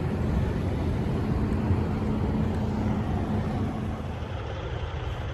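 Idling diesel truck engine: a steady low drone with a humming tone that drops away about three and a half seconds in.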